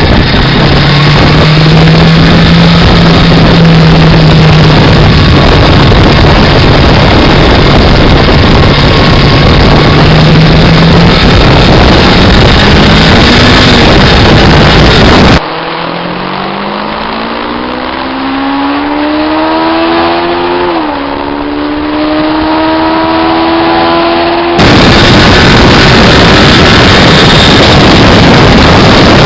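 A 500 cc parallel-twin motorcycle engine running and being revved, very loud, with its note rising about two-thirds of the way into the first part. After an abrupt cut, a quieter recording has the revs climbing steadily, dropping briefly and then held high. After a second cut, the very loud running returns.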